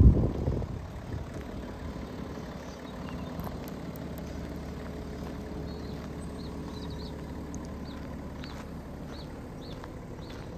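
BMW 730Ld's 3.0-litre six-cylinder diesel idling steadily, after a brief low thump right at the start. Faint bird chirps come in over the second half.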